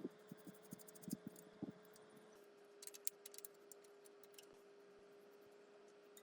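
Near silence: a faint steady hum with a few scattered light clicks and ticks.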